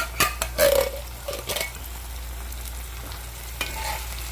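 Food sizzling in a pot on the stove while a spoon stirs it, knocking against the pot several times in the first second and a half and once more near the end.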